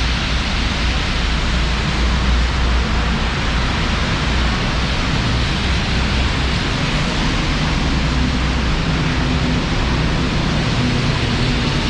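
Heavy monsoon rain pouring steadily, a dense, even hiss with a low rumble underneath.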